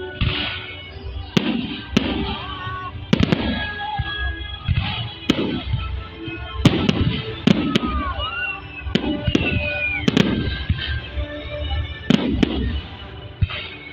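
Fireworks salute going off in quick succession, with sharp bangs every second or so and a few whistling glides in pitch, over music playing underneath.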